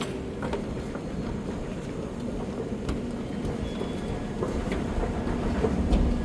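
Underground metro station machinery hum, steady with a few held tones, and scattered light clicks. A deep rumble builds over the last couple of seconds.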